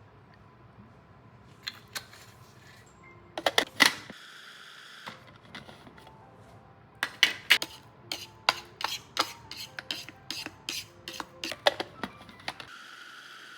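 Hard objects clicking and tapping against each other: a quick cluster of sharp clicks about three and a half seconds in, then a long irregular run of clicks and taps from about seven seconds on.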